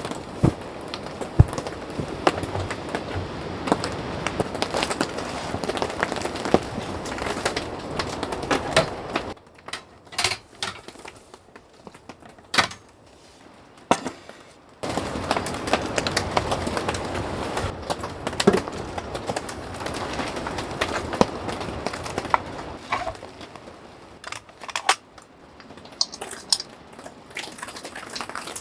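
Dense, irregular sharp crackles and ticks over a steady hiss. The sound drops to a few scattered clicks for several seconds near the middle, then comes back.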